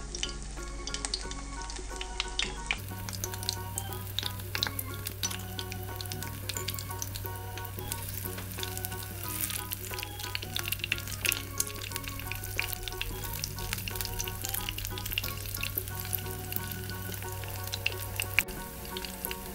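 Kefir-batter pies frying in plenty of hot sunflower oil in a deep pan: a steady sizzle full of sharp crackles and spits.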